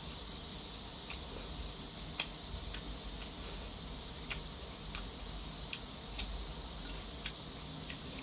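A person chewing a mouthful of jajangmyeon with small, sharp, wet mouth clicks coming irregularly about once a second, over a faint low steady hum.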